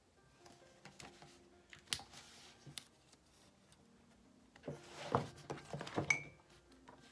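Small handling sounds at a desk: a few soft clicks and taps, then a short run of rustling and knocks about five to six seconds in, over faint background music.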